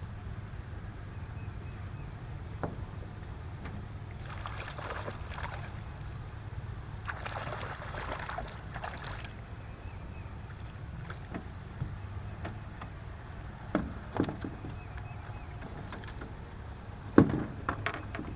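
Small fishing boat on the water with a steady low hum, broken by a few sharp knocks against the boat. The loudest knock comes about a second before the end, and two short hissy rustles come near the start of the second half.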